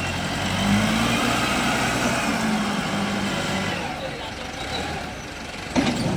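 Small wheel loader's diesel engine running steadily at work, with a sharp knock near the end.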